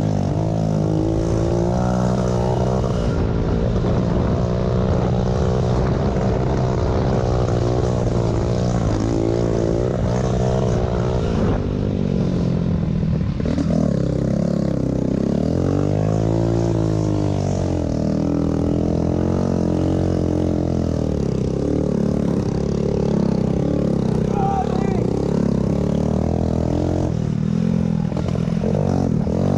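Small pit bike motorcycle engines running hard in a race, their pitch climbing and dropping again and again as the throttle opens and closes, with a long swell up and back down about halfway through.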